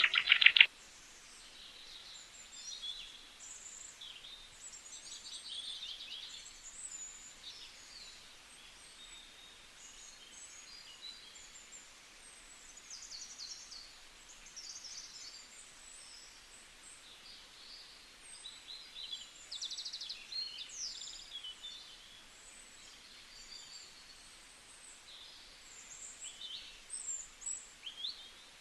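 Birds chirping: many short, high calls overlapping throughout, fairly faint. A louder, close bird call cuts off within the first second.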